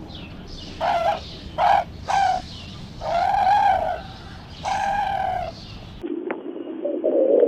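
Five short animal calls, each a clear pitched cry, the longest rising and falling, over a low steady rumble. About six seconds in the sound cuts to a softer, lower-pitched call.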